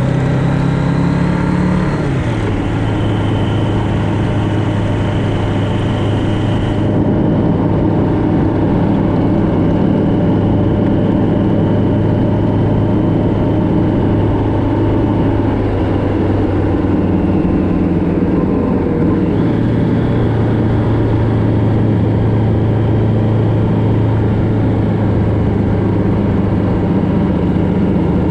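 Motorcycle engine running at road speed with steady wind and road noise. The engine pitch steps down about two seconds in and shifts again later on, as the speed or gear changes.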